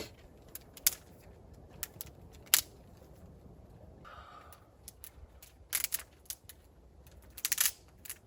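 Scattered sharp clicks and short rattling clatters, a few single snaps early on and two quick bursts of rattling later, over a quiet low background.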